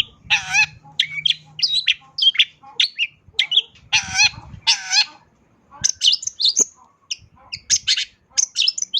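Long-tailed shrike (cendet) singing a fast, varied song of short chirps and whistles packed with mimicked calls of other birds, broken by harsh buzzy notes about half a second in and again around four to five seconds in.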